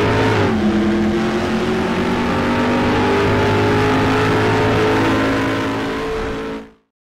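Audi A6 2.7 TDI V6 diesel engine running: the revs drop back about half a second in, then hold steady with a slight rise before the sound cuts off abruptly near the end.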